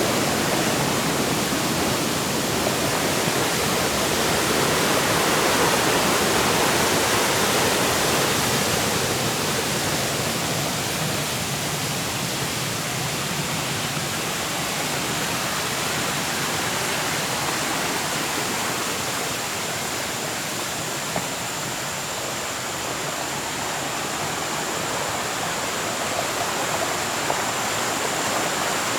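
Steady rushing of water from a shallow forest stream flowing through the trees.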